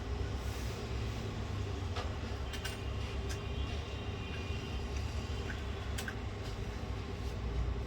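A few light clicks and taps of small laptop parts and tools being handled during reassembly, over a steady low background rumble.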